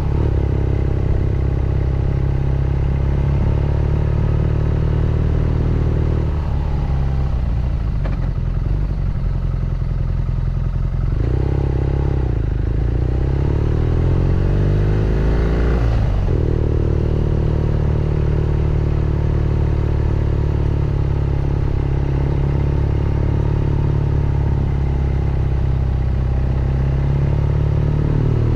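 BMW R nineT Scrambler's boxer twin engine and exhaust running under way. About halfway through, the pitch rises as the bike accelerates, then drops suddenly, as at a gear change, before settling back to steady running.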